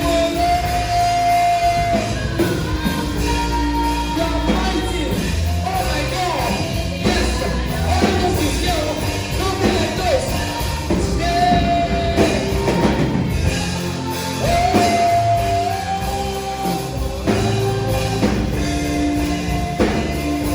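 Live gospel worship music: a voice sings long, held notes with sliding pitch over a band.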